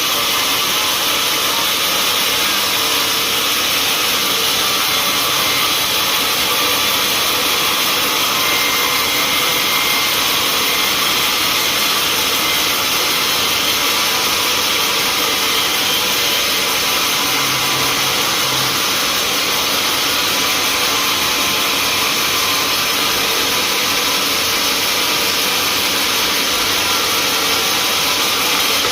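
Sawmill machinery running: a loud, steady mechanical noise that does not change.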